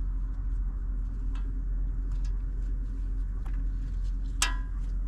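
Faint light clicks from handling a plastic ABS-wire clip and cable against a steady low hum, with one short high chirp or squeak about four seconds in.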